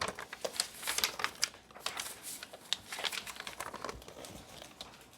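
Sheets of paper being handled and folded, with irregular crinkling and rustling that thins out toward the end.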